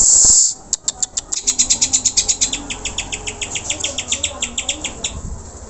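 Cucak hijau (green leafbird) singing: a harsh rasping burst lasting about half a second, then a rapid string of short, sharp repeated high notes, about eight a second, fading near the end.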